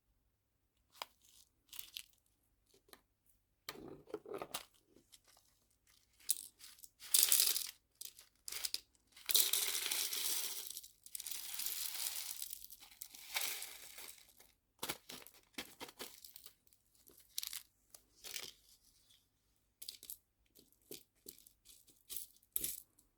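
Plastic packaging crinkling and tearing as nail charms are handled, with scattered light clicks and taps in irregular bursts. A longer spell of rustling comes about seven to fourteen seconds in.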